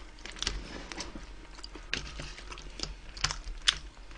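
Sharp little clicks and crunches at an uneven pace: people eating wood-fired roast chicken close to the microphone.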